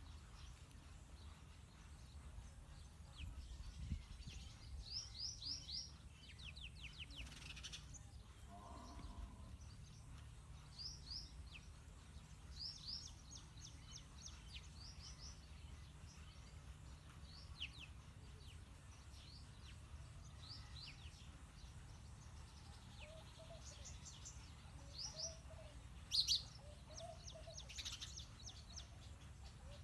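House sparrows chirping: short, quick chirps in runs of several, repeated all through, with a steady low rumble underneath. A few lower, short notes join in near the end.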